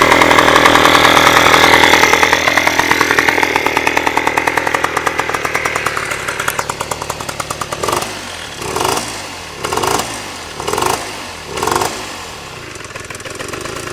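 Piaggio TPH scooter engine running at high revs, the revs then dropping away; five short throttle blips follow about a second apart before it settles to a steady idle.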